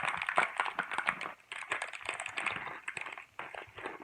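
Dense, irregular clicking and crackling of small plastic LEGO parts and their packaging being handled.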